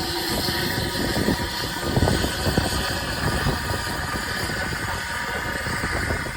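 Narrow-gauge train running, a steady rumble with irregular knocks and clatter from the wheels and rolling stock.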